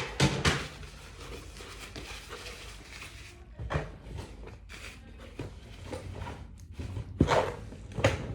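Knocks and clatter of small objects being handled and set down. The loudest knocks come in the first half second and again near the end.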